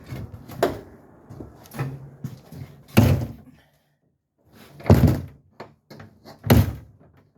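RV entry door being opened and handled: a series of about five heavy thuds and knocks, the loudest about three, five and six and a half seconds in.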